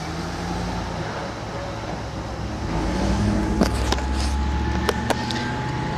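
Car engine running steadily with a low rumble, with a few light clicks partway through.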